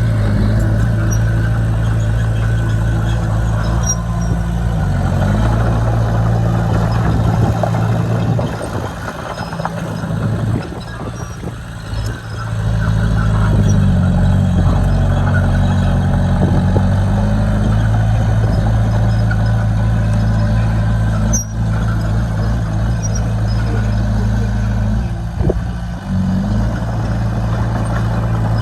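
Heavy diesel engine of earthmoving machinery running steadily, its note shifting with load several times. It dips and breaks up for a few seconds around the middle, and there is one sharp knock about two-thirds of the way through.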